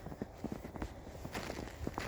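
Footsteps of a person walking over snow and ice: a run of short, irregular steps.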